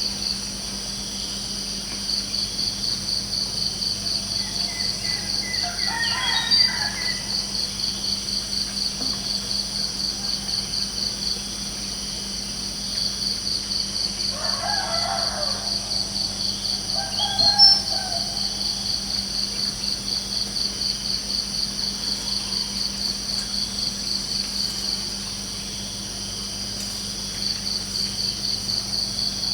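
Crickets chirping in a steady, rapidly pulsing high trill that pauses briefly a few times, with a rooster crowing twice, once about six seconds in and once, longer, around the middle.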